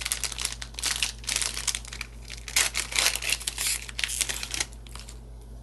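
Foil trading-card booster pack crinkling as it is torn open and handled: a run of irregular rustles and crackles that stops near the end.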